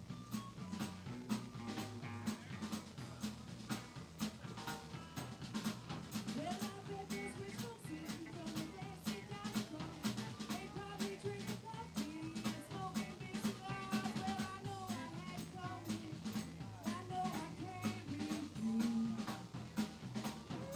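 Live band playing a song, the drum kit keeping a steady beat under a moving melody line.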